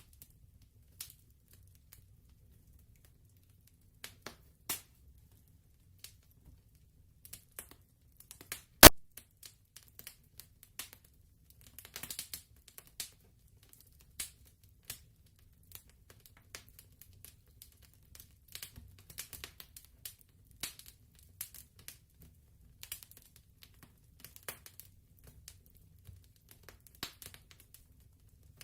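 Fireplace crackling: irregular sharp pops and crackles over a faint low rumble, with one loud pop about nine seconds in.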